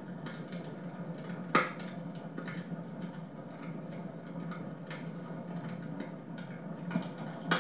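Wood fire burning in a fireplace, crackling, with scattered small snaps and a sharp pop about one and a half seconds in and two more near the end.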